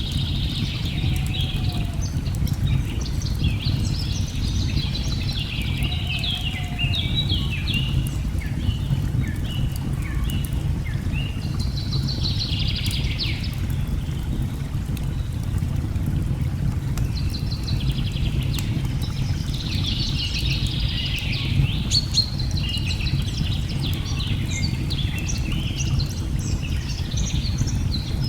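Birds singing in repeated flurries of quick, high chirping notes over a steady, deep rush of falling water, with faint scattered crackles of a wood fire.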